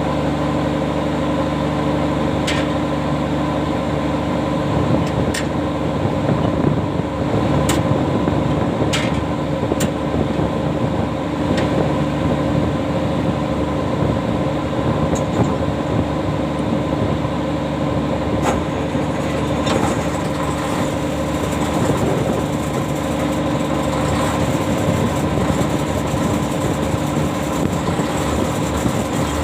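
Ship's deck machinery running steadily with a layered mechanical hum, while the anchor is heaved up. A few sharp clicks sound every second or two in the first half.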